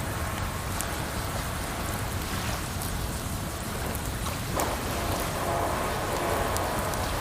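Campfire crackling with scattered sharp pops over a steady rush of running water.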